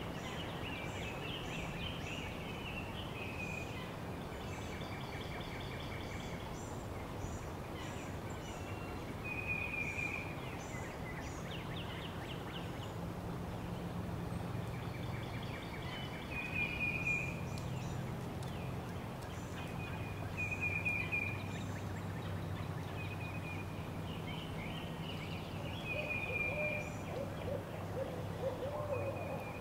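Birds calling and chirping: short calls repeated every few seconds, with quick high chirps in between. Under them is a steady low rumble of background noise.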